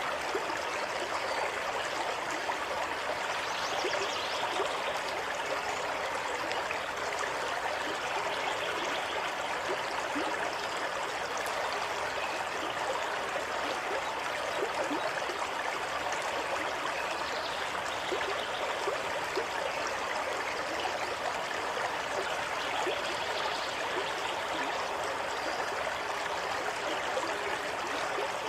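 Water running steadily over stones in a stream, a continuous rushing with small splashes and gurgles.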